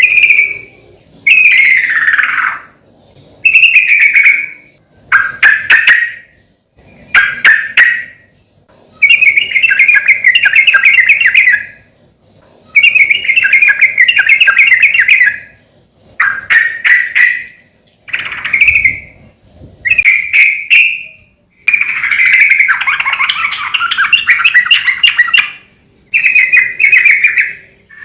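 Yellow-vented bulbul (trucukan) singing vigorously in repeated loud, bubbly chattering phrases. Each phrase lasts one to three seconds, with short pauses between.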